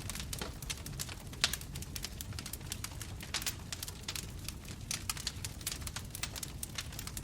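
Wood fire crackling, with many small irregular snaps and pops over a low rumble of flames, and one louder pop about one and a half seconds in.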